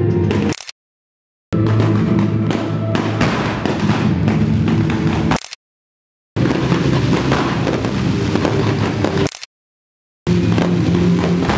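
Loud music playing over a fireworks display, with crackling and bursting shells. The sound cuts to dead silence three times for about a second each, between joined clips.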